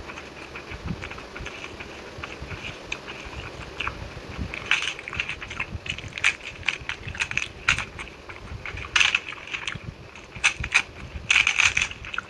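Close-miked chewing and lip-smacking of a mouthful of rice and curry: wet clicks and crackles that come thicker and louder from about halfway.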